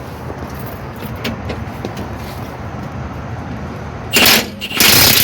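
Steady background noise, then two short loud bursts from an impact wrench about four seconds in, the second a little longer, as it works on the rear shock bolts.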